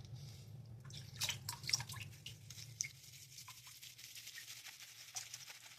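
Wet shaving sounds: quick, crisp, wet clicks and squishes of lather being worked on the skin. They start about a second in and thin out toward the end.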